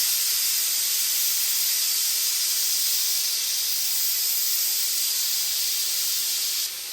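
Pressure cooker venting steam through its release valve in a loud, steady hiss, letting off pressure once the rice is cooked. The hiss drops to a lower level near the end.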